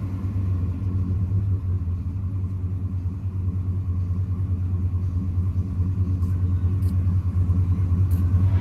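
Chevy Silverado 2500HD's 6.0-litre V8 idling through a Gibson cat-back dual exhaust, a low, steady rumble.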